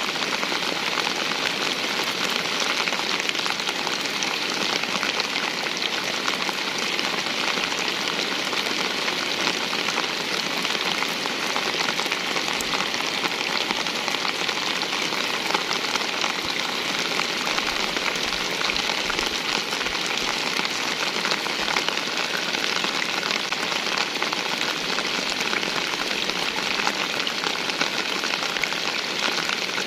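Steady rain falling and pattering on surfaces, with dense fine drop hits and an even hiss that neither swells nor fades.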